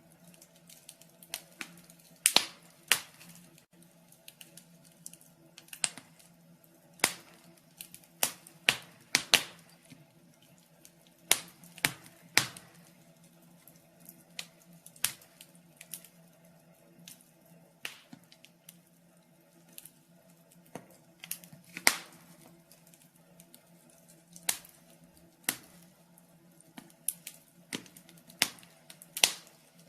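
Wood fire crackling in a fireplace: irregular sharp pops and snaps, at times several in quick succession, over a faint steady low hum.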